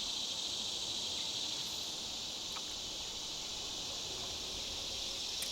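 Steady, unbroken high-pitched chorus of summer insects.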